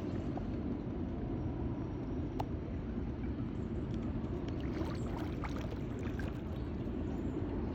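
Steady low rumble of outdoor park ambience, with faint short high chirps or ticks now and then.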